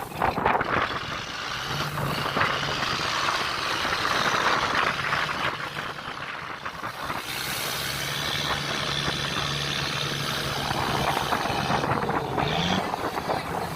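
Fishing boat's engine running with a steady low hum that drops out and returns, under a loud rush of wind and rough sea.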